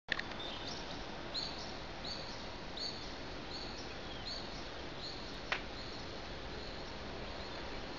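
A bird repeating one short high chirp about every three-quarters of a second over a steady hiss, with a single sharp click about five and a half seconds in.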